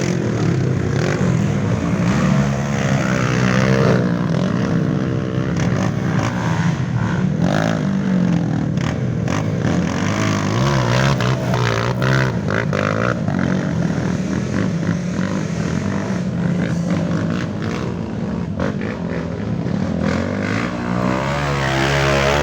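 Off-road trail motorcycle engines revving hard, their pitch repeatedly rising and falling.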